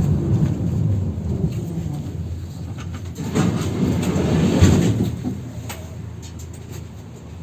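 71-608KM tram heard from inside: the low rumble of its running gear on the rails fades away as it slows to a stop, with a brief louder clatter about halfway through.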